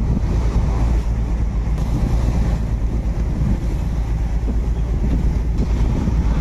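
Steady low rumble of wind buffeting the microphone, mixed with the running noise of a ferry.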